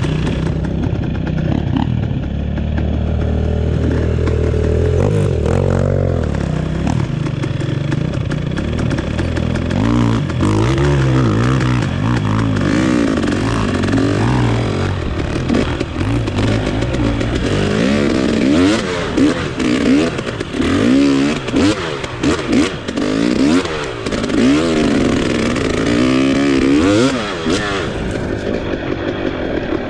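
Off-road trail motorcycle engine running and being ridden, its pitch rising and falling with the throttle. In the last third it goes into a run of short revs, about one a second, each climbing and dropping back.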